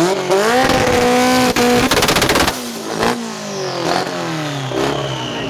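Turbocharged car engine revved up and held on its two-step launch-control limiter, then a rapid machine-gun string of exhaust pops about two seconds in, then the revs fall away. Shorter revs follow near the end.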